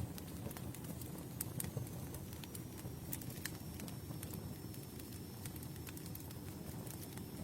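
Campfire burning: wood crackling with scattered sharp pops over a low, steady rumble of flames.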